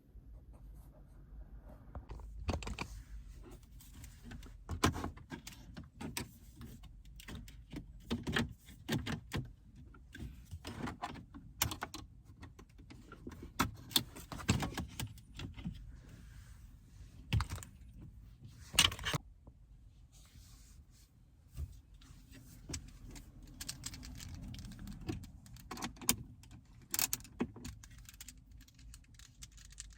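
Irregular clicks, knocks and rattles of plastic center-console trim being pried loose and handled, with a few sharper snaps of clips and tools.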